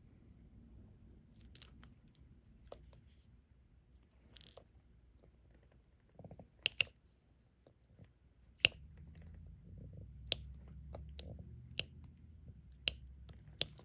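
Diamond-painting stylus picking up resin drills and pressing them onto the sticky canvas: sharp little clicks and taps about once every second or so, with a faint low hum coming in about halfway.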